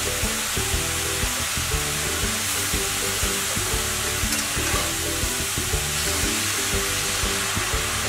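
Grated carrots sizzling in hot ghee in a metal kadai as a metal spatula stirs and turns them, with a steady frying hiss and small irregular clicks of the spatula against the pan.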